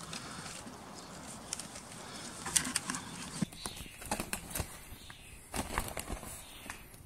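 Birds calling, among scattered light clicks and rustles.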